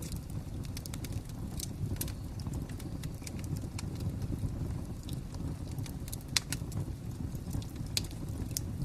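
Crackling fire: a steady low rumble with scattered sharp pops and snaps. The loudest pops come about six and a half seconds in and again about eight seconds in.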